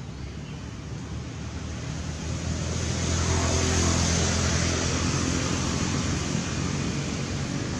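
A motor vehicle's engine passing close by, growing louder to a peak a few seconds in and then easing off a little, over a steady rush of road noise.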